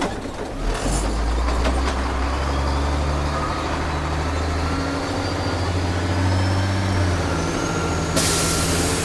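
A Freightliner FL70's CAT diesel engine running under way, with a faint whine climbing slowly in pitch as the truck gathers speed. Near the end a sudden steady hiss starts.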